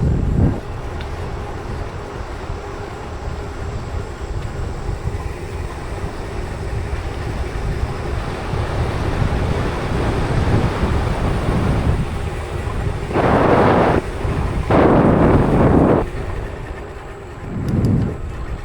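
Wind rushing over the microphone and rolling rumble while riding an electric mountain bike, with two louder surges of noise about two-thirds of the way through and a shorter one near the end.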